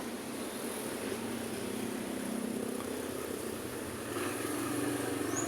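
Street traffic: engines of passing vehicles humming over steady road noise, with a louder vehicle coming up about four seconds in.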